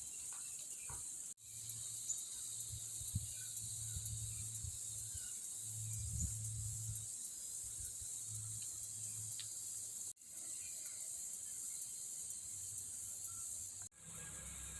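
Steady high-pitched insect chorus of crickets or cicadas, with the faint low drone of a small tractor engine underneath. The sound cuts out briefly three times.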